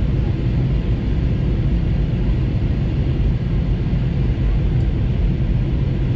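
Jet airliner engines giving a steady, low rumble that holds level without rising or falling.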